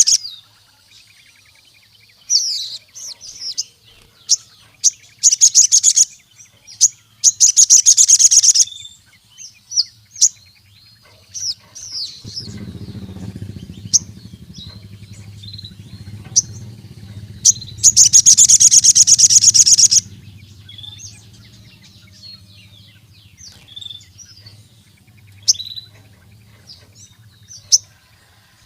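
Sogon (crimson sunbird) singing in full voice: rapid, very high trills in bursts of one to two seconds, the longest and loudest near the end, with short sharp chirps between the bursts. A faint low hum sits underneath in the middle stretch.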